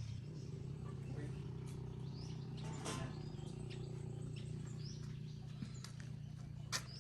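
Birds chirping over a steady low hum, with a sharp click about three seconds in and another near the end.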